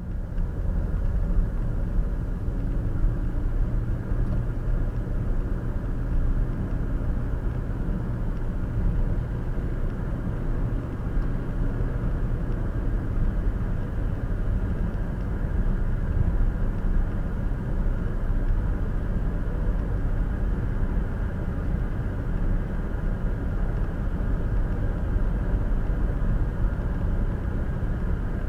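Steady road and tyre rumble with engine hum from a car driving at highway speed, heard from inside the cabin through a dash cam's microphone.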